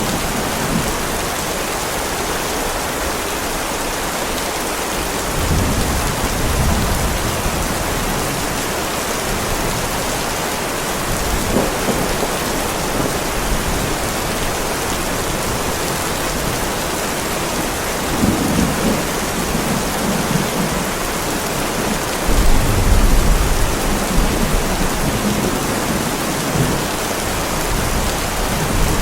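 Heavy rain falling steadily on a driveway, with several low rolls of thunder through it, the loudest about three-quarters of the way through.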